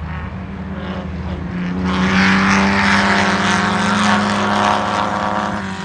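Pre-war racing car engine running with a steady note, which grows much louder about two seconds in, holds for about four seconds, then drops back.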